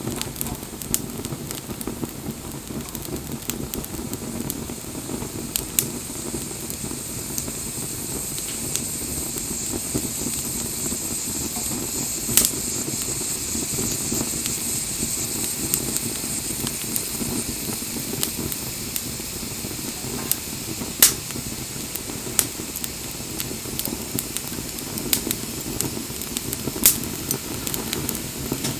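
Wood fire burning with a steady hiss and scattered sharp pops and crackles, the loudest pop about 21 seconds in.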